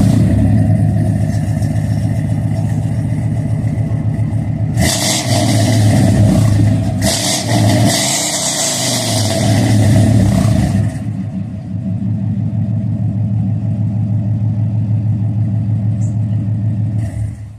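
Older pickup truck's engine breathing through newly fitted long-tube headers and exhaust, running loud just after start-up and revved several times in the first ten seconds or so, then settling to a steadier run.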